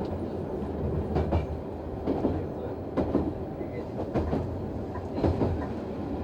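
Noto Railway NT100 diesel railcar running, heard from the driver's cab: a steady low engine and running hum with the wheels knocking over rail joints at uneven intervals, about once a second.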